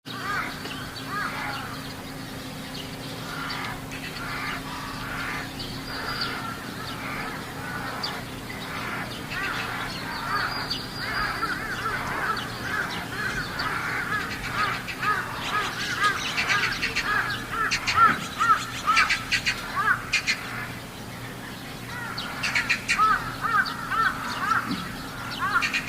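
Several crows cawing over one another in quick, repeated calls, densest in the middle and again near the end, over a steady low hum.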